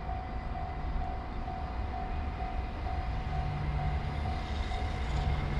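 An approaching train, a red electric locomotive, rumbling low and slowly growing louder, with a low hum joining about three seconds in. A warning bell pulses about twice a second throughout.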